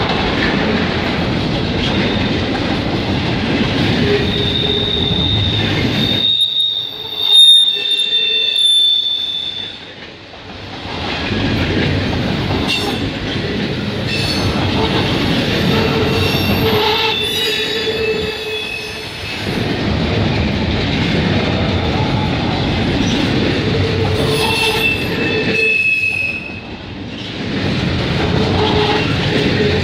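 Double-stack intermodal well cars of a CN freight train rolling past close by: a steady heavy rumble of steel wheels on rail. Shrill wheel squeals come and go, with a lower squeal in the middle. There is one loud clank about seven and a half seconds in.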